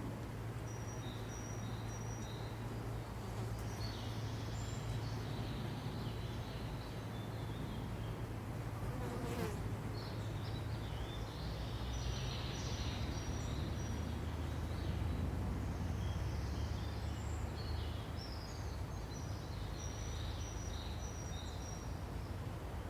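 A steady low buzz like flying insects, under small birds giving short, high chirps in repeated clusters.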